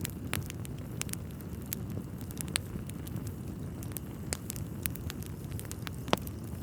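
Wood fire in a fireplace crackling: a steady low rumble of burning logs with frequent sharp pops and snaps, a louder pop about six seconds in.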